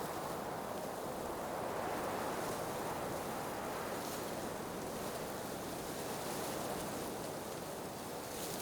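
Blizzard wind howling steadily, a dense rushing noise that swells gently and eases a little near the end.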